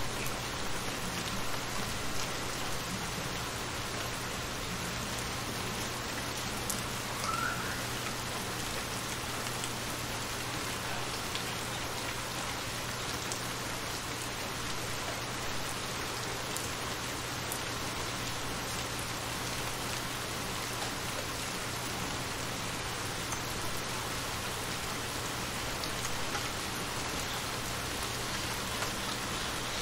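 Steady rain falling onto shallow water, many separate drops striking the surface, with a steady low hum underneath.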